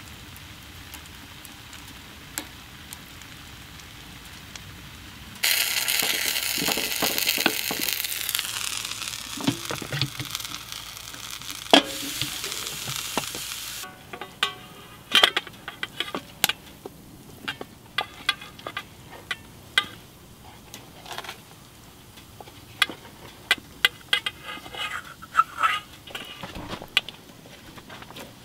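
Beans and corned beef hash sizzling loudly in a metal tray on a wood stove, cutting off suddenly about halfway through. A wooden spoon then scrapes and clicks against the metal tray many times as the food is scraped out into a bowl.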